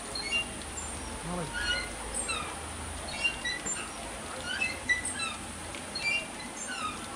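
Birds chirping: many short, high calls, mostly falling in pitch, over a steady background hiss.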